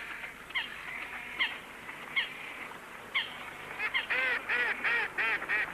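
Waterbird calls: a few short, sharp downward calls about a second apart, then from about four seconds in a quicker run of six or seven louder calls, each rising and falling in pitch.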